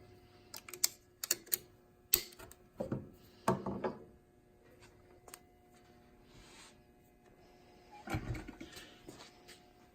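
Irregular small clicks and knocks, and a duller thump about eight seconds in, from a bobbin and bobbin case being handled and fitted into an industrial walking foot sewing machine. A faint steady hum runs underneath.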